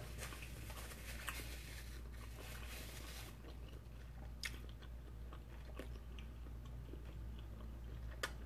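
A person chewing a mouthful of stromboli, faintly, with a few wet mouth clicks and smacks.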